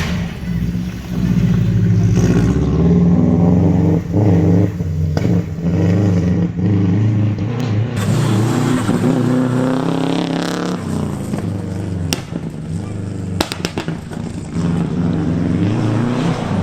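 Classic rally car engines revving hard, their pitch stepping up and down with throttle and gear changes, and a few sharp cracks about two-thirds of the way through.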